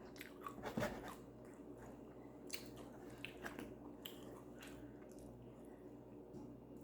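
Faint chewing and mouth sounds, soft smacks and clicks scattered through, the clearest a little under a second in.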